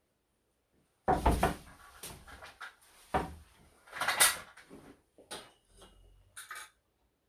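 Irregular knocks and clatter of hard objects being handled, starting about a second in, with the loudest knocks near the start and in the middle.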